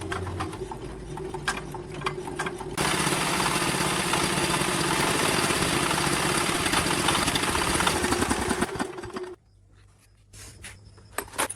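Loud machinery noise: a few seconds of clanks and knocks over a steady hum, then a dense, steady mechanical noise that cuts off suddenly about nine seconds in.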